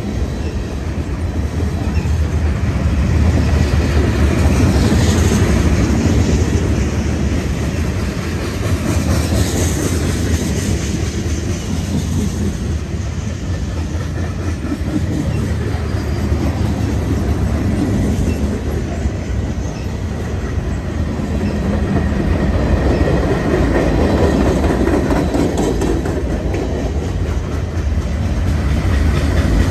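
Freight cars of a passing mixed freight train rolling by, a steady rumble with the wheels clicking over the rail joints.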